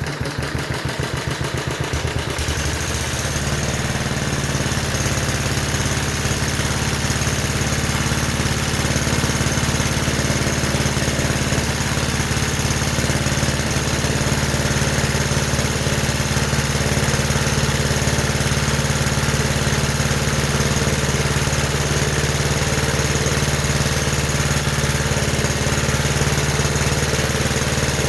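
Johnson Iron Horse 'Chore Horse' generator set's small single-cylinder gasoline engine, just started, picking up speed over the first two seconds or so and then running steadily, exhausting through a small Briggs & Stratton muffler.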